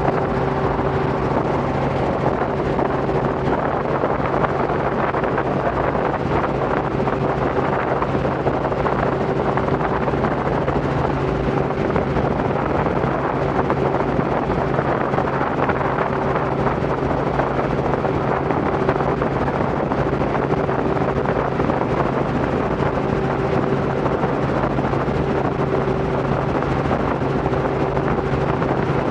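Robinson R44 helicopter in flight: the steady, unchanging drone of its six-cylinder Lycoming piston engine and rotors, with wind rushing over the microphone.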